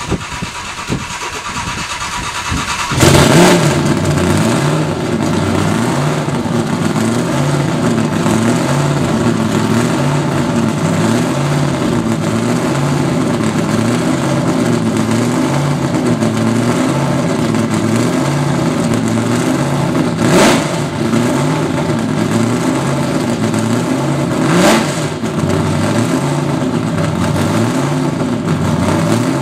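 A Plymouth Duster drag car's supercharged engine turns over and fires up loudly about three seconds in. It then settles into a lumpy idle that rises and falls about once a second, with two sharp throttle blips near the end.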